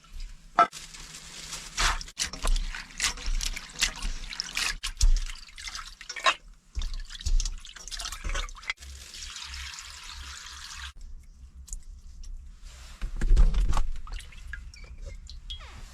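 Water pouring and splashing, with drips and sharp light knocks. A steady stream runs for about two seconds past the middle and cuts off suddenly.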